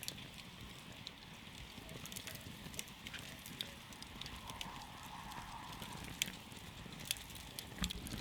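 Wood campfire crackling: scattered sharp pops and snaps over a steady low hiss of burning, with a few louder pops in the second half.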